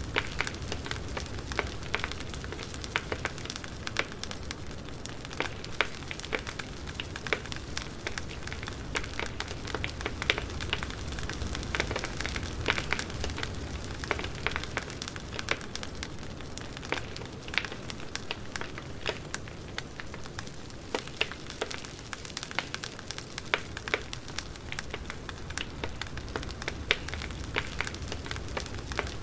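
Campfire crackling steadily, with frequent irregular pops and snaps.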